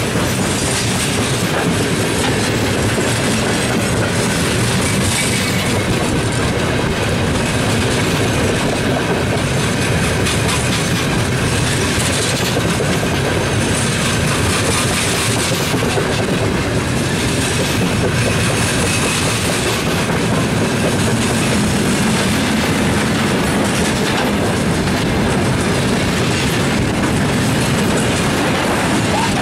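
Freight wagons, open gondolas and then tank cars, rolling past close by: a steady, loud rumble and clatter of steel wheels on the rails.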